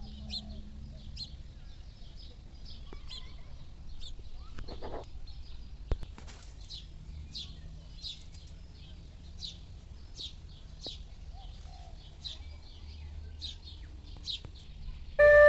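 A bird chirping over and over, short high calls about one or two a second. Flute music comes in just before the end.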